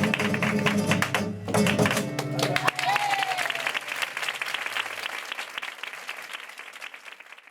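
Flamenco tangos ending on sharp final strikes of guitar and percussion about two and a half seconds in, followed by audience applause with a single shout, the applause fading out steadily.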